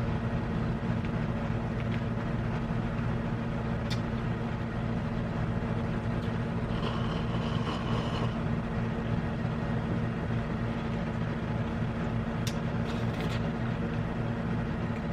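Steady low hum, with a few faint clicks and a brief faint tone about seven seconds in.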